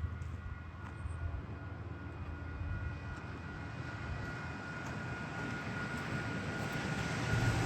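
MBTA commuter rail train running at speed, a rushing rumble growing steadily louder with a faint steady high whine over it.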